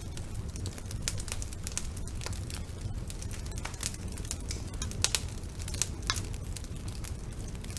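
Wood fire burning in a fireplace, crackling with irregular sharp pops over a steady low rumble; a cluster of louder pops comes about five seconds in.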